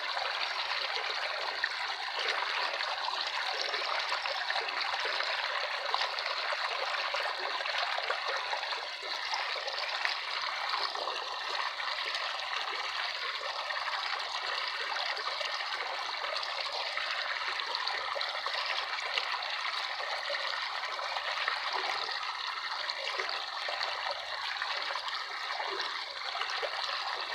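Running water flowing steadily without a break, an even rushing sound that holds the same level throughout.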